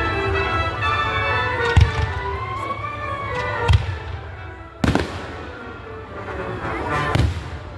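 Fireworks going off: about four sharp bangs a second or two apart, the first two the loudest, with music playing throughout.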